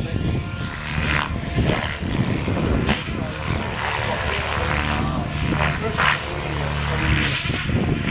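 Radio-controlled model helicopter flying: a steady high whine that wavers slightly in pitch, with the rotor noise swelling and easing every second or so as it manoeuvres, over heavy wind buffeting the microphone.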